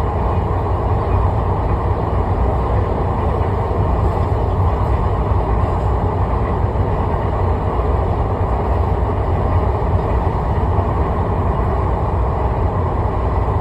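Steady low rumble of a vehicle in motion, an even running noise with no distinct events.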